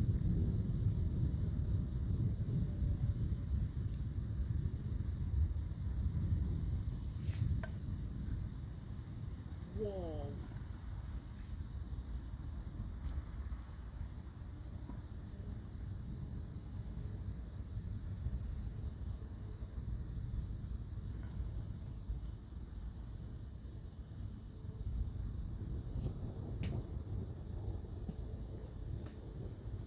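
Night insects, crickets, trilling in a steady high-pitched chorus, while a low thunder rumble, loudest at the start, dies away over the first several seconds. A brief run of quick chirps is heard about ten seconds in.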